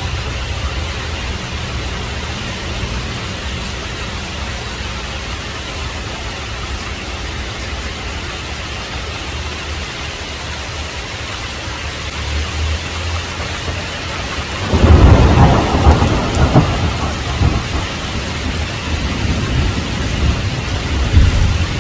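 Heavy rain falling steadily with a low rumble of thunder, then a loud thunderclap about two-thirds of the way through that rolls on in rumbles to the end.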